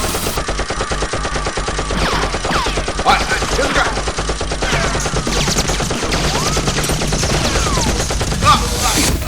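Rapid, continuous automatic gunfire, the quick shots running together in a steady stream.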